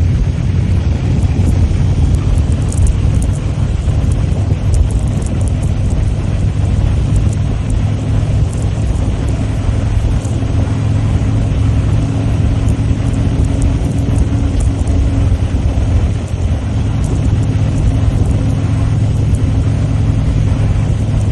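Motorcycle engine running steadily at cruising speed, with rushing wind noise from riding.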